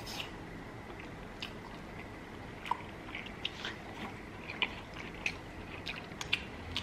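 Close-miked mouth sounds of people eating pasta and barbecue pork ribs: soft chewing with short wet clicks and smacks scattered about every half second to second.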